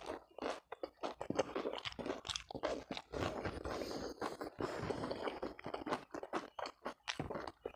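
Close-miked crunching and chewing of a mouthful of food, as rapid, irregular crackly clicks, while fingers pick apart a piece of catfish over rice.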